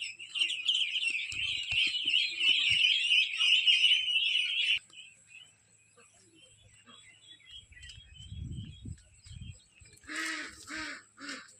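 A flock of small birds chattering and chirping densely together for about five seconds, then only scattered faint chirps. Near the end come four loud, evenly spaced honking calls from a larger bird.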